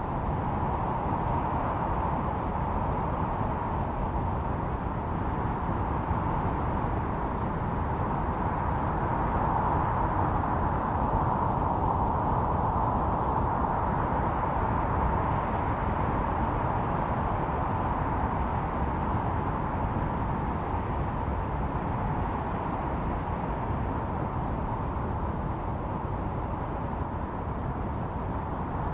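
Blizzard wind blowing steadily, with a howling tone that swells in the middle and eases off again over a low rumble.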